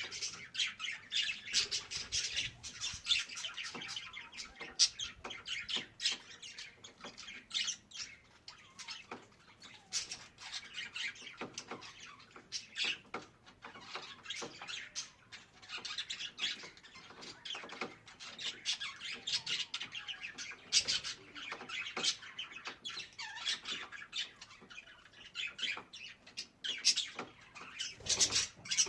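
Budgerigars chattering, warbling and squawking continuously, with many short chirps and clicks.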